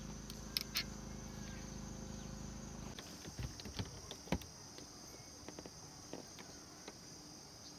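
Steady high-pitched insect buzzing, crickets or cicadas, with scattered light ticks and knocks of movement over it.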